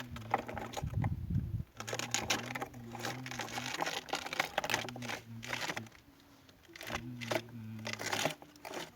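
Crinkling and clattering handling noises, with a low steady hum that switches on and off several times.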